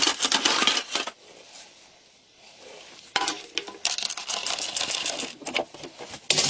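Rapid clicking and clattering of small hard objects for about a second, a quiet pause, then a second run of irregular clicks and knocks.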